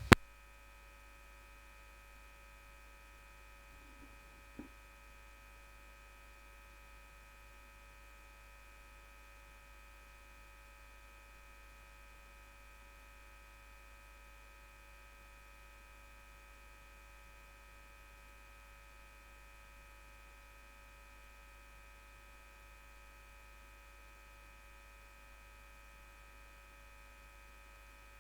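Faint, steady electrical hum with a few constant tones, no other activity; a single faint click about four and a half seconds in.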